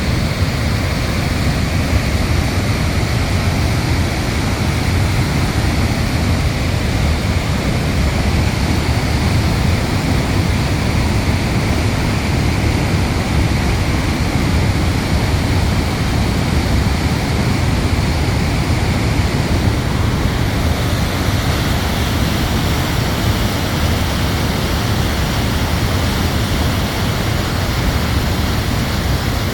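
Large waterfall, a loud steady rush of falling water with a deep rumble underneath; it grows slightly hissier about twenty seconds in.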